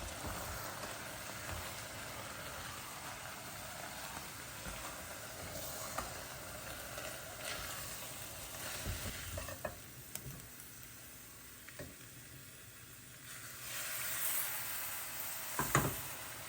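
Food sizzling in a hot pan while being stirred, with a few sharp utensil clicks against the pan. The sizzle drops away for a few seconds past the middle, then comes back louder.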